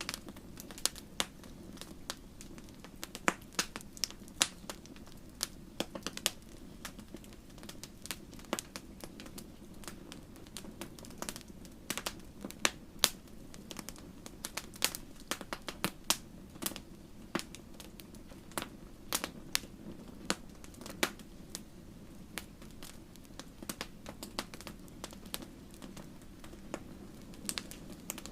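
Wood fire crackling, with frequent sharp, irregular pops and snaps over a steady low rush of burning.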